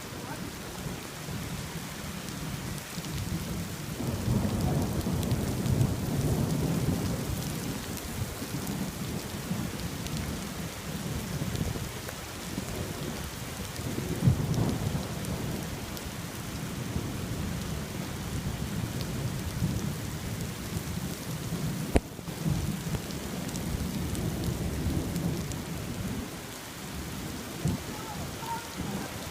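Steady rain falling, with thunder rolling in low rumbles that swell and fade several times. There are two short sharp knocks, about halfway through and about three-quarters through.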